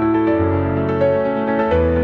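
Background music: soft new-age instrumental with piano or keyboard, slow held chords over a low bass.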